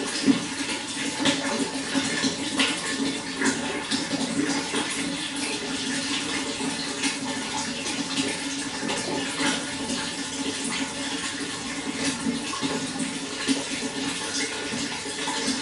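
Running water flowing steadily: a continuous rush with many small splashes and drips scattered through it.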